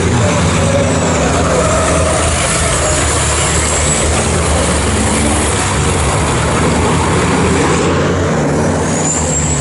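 Racing trucks' diesel engines running hard at race speed: a loud, steady drone, with a faint high whistle gliding upward near the end.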